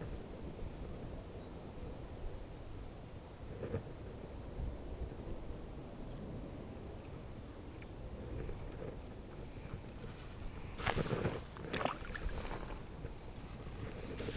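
River water running with a steady low rush, broken by a faint click a little under four seconds in and two short, louder scraping knocks around eleven and twelve seconds in.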